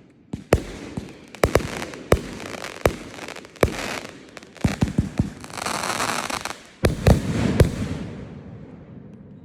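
Fireworks display: a quick series of sharp aerial bursts, with a second or so of dense crackle about halfway through. A cluster of the loudest bangs follows about seven seconds in, then fades away in echo.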